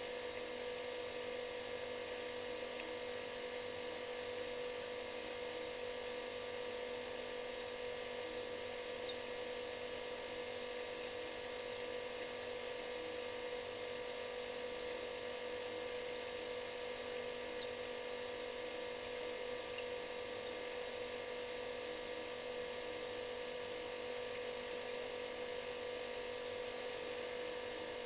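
Refrigerator running with a steady buzzing hum: one strong mid-pitched note with fainter ones above it, over a light hiss.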